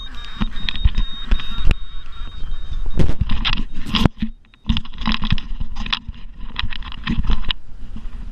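An autopilot alarm beeps on a high steady pitch for about two and a half seconds as the tiller autopilot shuts itself off, overpowered by the wind. A run of loud knocks and clattering follows, over rushing wind and water.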